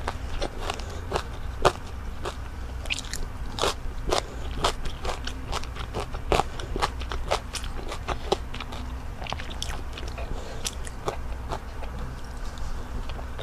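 Close-miked chewing and biting of crunchy food, with sharp crunching clicks about two a second. A steady low hum runs beneath.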